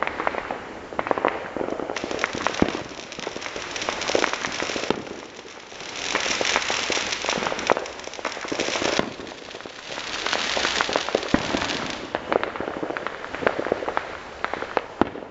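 Fireworks and firecrackers popping: scattered sharp bangs, with three stretches of dense crackling, each lasting two to three seconds, about two, six and ten seconds in.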